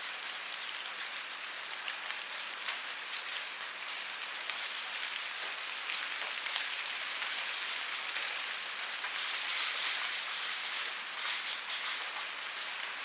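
Steady rain falling, a dense hiss of many drops with fine patters of individual drops, swelling a little about ten seconds in.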